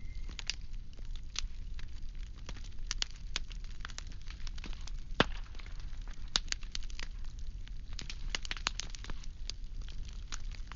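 Burning firewood crackling, with irregular sharp pops over a steady low rumble and one louder pop a little past halfway.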